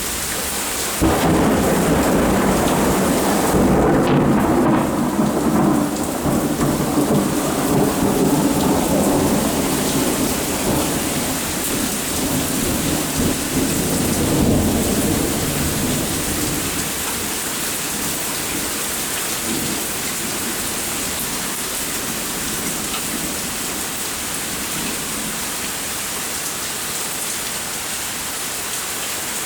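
Steady rain falling, with a long roll of thunder that breaks in suddenly about a second in, rumbles loudly for several seconds and dies away by about halfway through.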